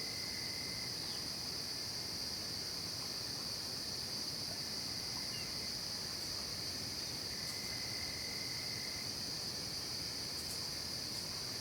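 Night insect chorus of crickets: a dense, steady, high-pitched trilling that never lets up. A second, lower steady trill joins briefly at the start and again for about a second and a half past the middle.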